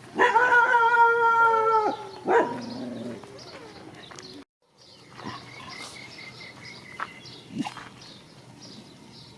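A dog howling in one long, steady call of about two seconds, followed by a short yelp; then only faint scattered sounds.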